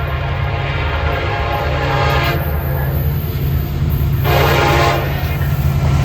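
Train horn sounding over the heavy low rumble of a locomotive passing close by. The horn changes about two seconds in and gets louder about four seconds in.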